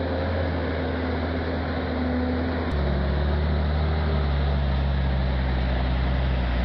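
Heavy truck's diesel engine running steadily, its note dropping abruptly to a lower, louder one about three seconds in.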